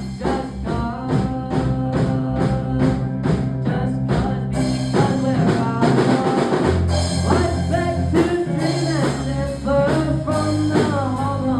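Band playing a rock song: a drum kit keeps a steady beat under sustained bass notes and other instruments, with singing in places.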